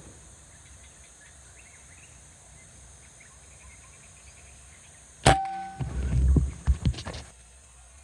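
A single air rifle shot about five seconds in: one sharp crack with a brief metallic ring, followed by about two seconds of low knocks and rustling.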